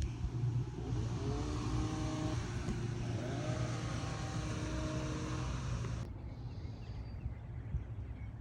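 A motor vehicle running with a steady low hum, with whining tones that rise in pitch during the first half. A hiss above it cuts off suddenly about six seconds in.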